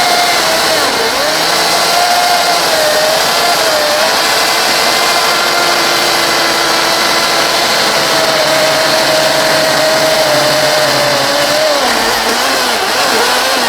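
Ryobi 40V brushless battery chainsaw cutting into a large log: a steady motor whine with chain noise, its pitch sagging under load and recovering several times, most markedly about a second in and again near the end.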